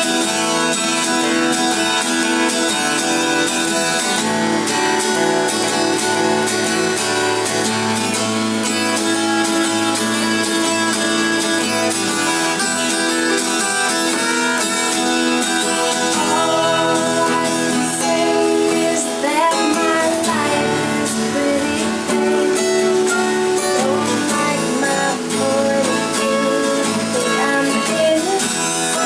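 Acoustic guitar music, strummed and plucked, with a voice singing along at times.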